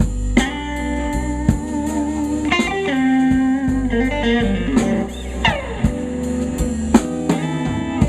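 Live slow blues band: an electric guitar plays a lead fill of held, bent and wavering notes over bass and drums, with no singing.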